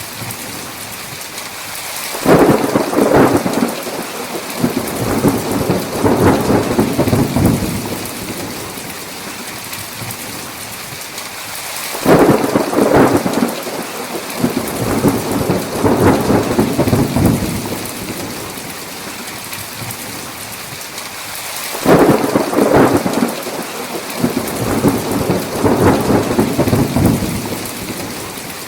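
Thunderstorm: steady heavy rain with thunder rolling three times, each peal starting suddenly and rumbling on for about five seconds.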